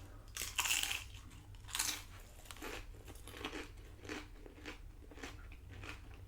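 Close-up eating of tortilla-chip nachos: two loud crunching bites in the first two seconds, then steady chewing with small crunches about twice a second.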